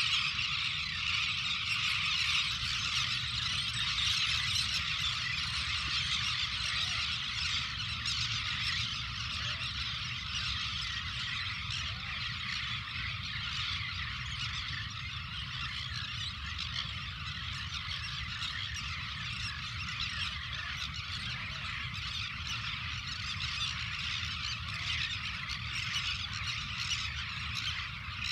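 A dense chorus of many birds calling at once, a continuous mass of overlapping high calls, over a steady low rumble.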